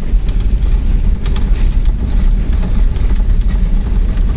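A vehicle's engine and road rumble, steady and loud, as it drives up a climb.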